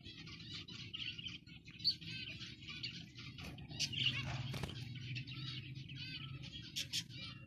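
A flock of zebra finches chirping and calling continuously, many short overlapping chirps at once, over a low steady hum.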